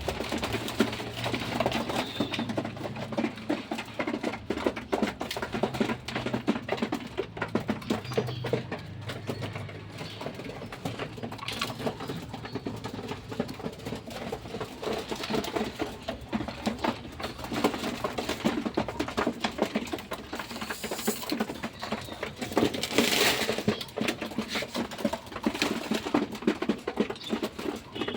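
Pigeons feeding: a steady patter of many small pecks and footsteps, with low cooing in the first part and a brief louder flurry near the end.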